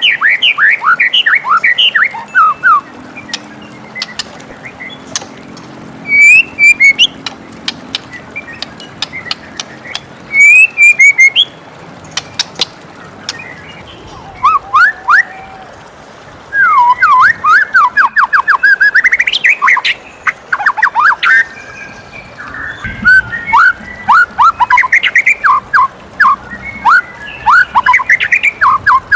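White-rumped shama singing in rapid phrases of quick up-and-down sweeping notes, with short pauses between phrases and near-continuous song through the second half.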